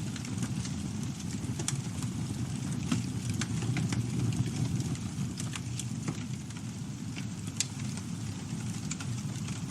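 Campfire burning, a steady low rumble of flames with scattered sharp crackles and pops of the burning wood.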